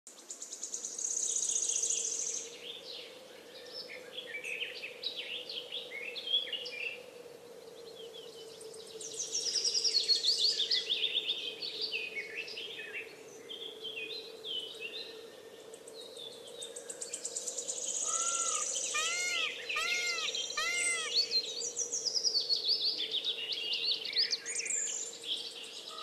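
Several birds chirping and singing together in a busy chorus of quick high notes. From about 18 seconds in, one bird repeats a lower arched call that rises and falls, about two a second. A faint steady drone runs underneath.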